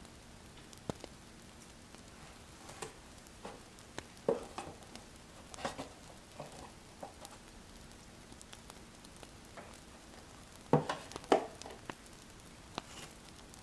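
Pen writing on paper in short, irregular scratching strokes, loudest in a pair about eleven seconds in, over a wood fire's faint crackle.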